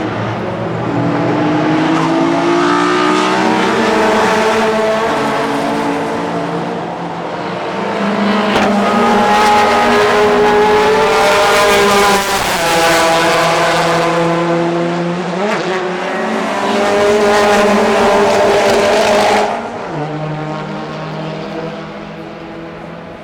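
Historic DTM touring cars racing past, several in close succession, their engines rising in pitch as they accelerate and dropping at each gear change. It is loudest in the middle, and the sound falls away sharply near the end as the cars move off.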